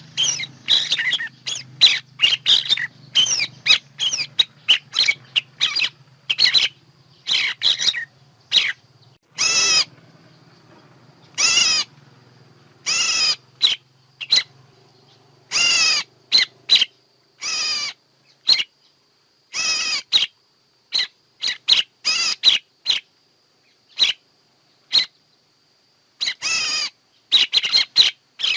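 Birds calling: quick runs of sharp chirps, with repeated longer harsh calls about half a second each, at irregular intervals. A low hum sits under the calls until about halfway through, and a faint steady high tone runs behind them in the second half.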